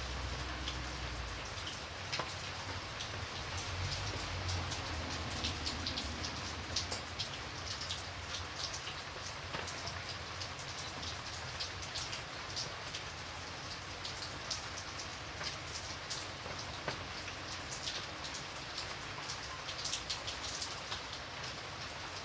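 Steady rain falling, with many distinct close drops ticking on a surface over an even hiss. A low rumble sits under it in the first two seconds.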